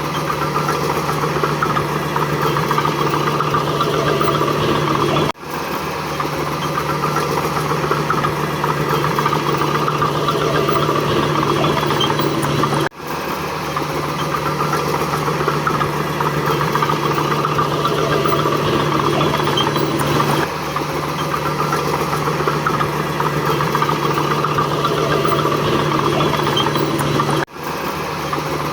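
Diesel engine of heavy earthmoving equipment, a mini bulldozer or dump truck, running steadily with a constant low hum and clatter. It breaks off sharply three times where clips are cut together.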